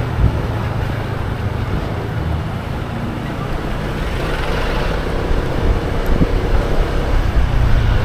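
A motorbike riding along a road: its engine runs under heavy wind noise on the microphone, getting a little louder near the end.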